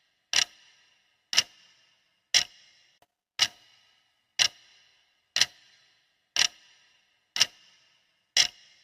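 Clock ticking steadily, one sharp tick each second with a short ringing tail, as a countdown timer's tick track.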